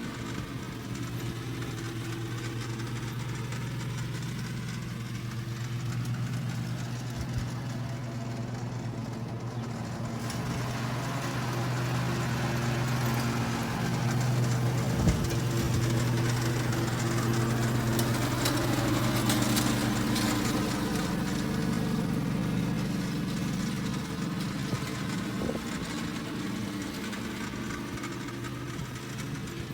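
Husqvarna R322T lawn tractor engine running steadily, growing louder through the middle and easing off near the end, with a single thump about halfway through.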